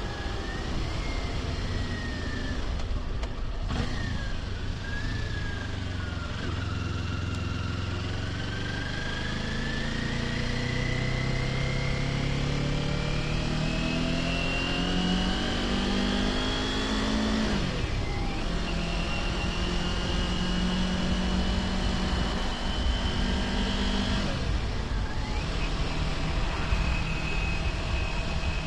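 Kawasaki Ninja 400's parallel-twin engine pulling up through the gears, heard from the rider's position with wind rush. The engine note climbs steadily, drops sharply at an upshift about two-thirds of the way in, climbs again, then drops at a second upshift and settles to a steady cruise near the end.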